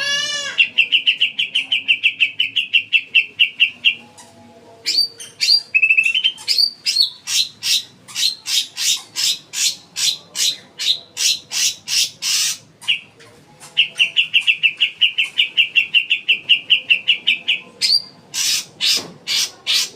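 Green leafbird (cucak ijo) singing: rapid trills of many even, quick notes alternate with runs of loud repeated notes about two a second, the bird switching between them twice.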